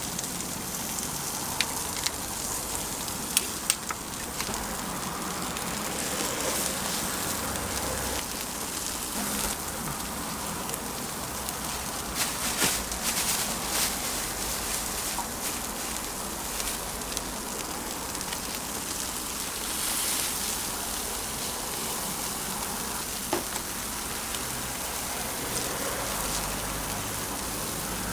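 Food frying on a hot griddle: a steady crackling sizzle, with a few sharp clicks of a metal utensil.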